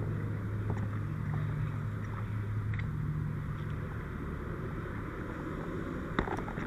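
Fire engine running steadily at the scene, a low even hum, with a few sharp clicks near the end.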